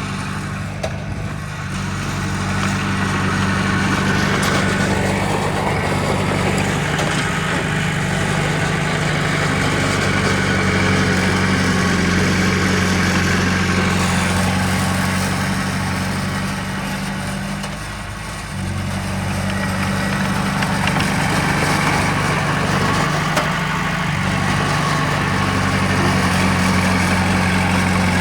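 Heavy diesel engine of earthmoving machinery running steadily, easing off briefly about two seconds in and again around eighteen seconds.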